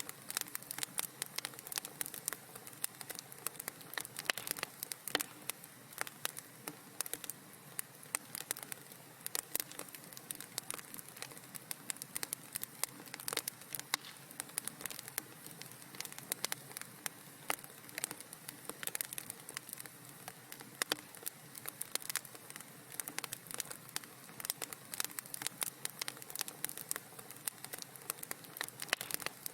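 Wood fire in a fireplace crackling, with many small irregular pops and snaps over a soft steady hiss.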